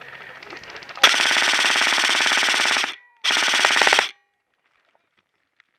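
Airsoft gun firing full-auto in two bursts: one of about two seconds, then after a short pause a second of about one second.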